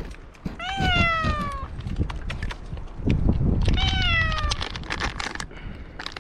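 Domestic cat trapped up a tree meowing twice, each a drawn-out call falling in pitch, with scattered clicks and rustling around it.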